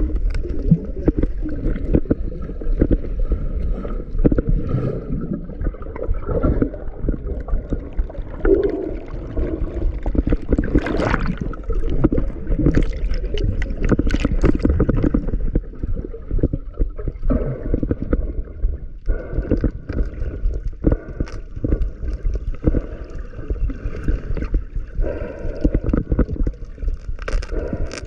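Muffled water rushing and gurgling, dense and low, with frequent small knocks and clicks throughout, as picked up by a camera underwater.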